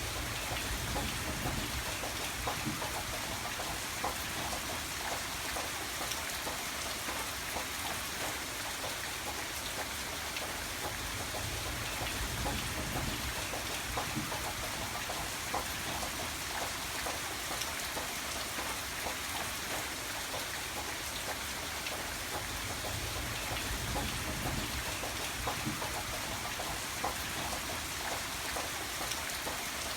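Steady rain with many separate drops pattering on a surface, over a soft low rumble.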